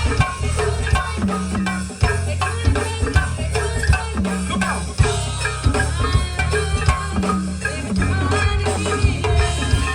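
Live band playing an upbeat instrumental groove: steady drums and percussion over a bass line, with melodic instrument lines above.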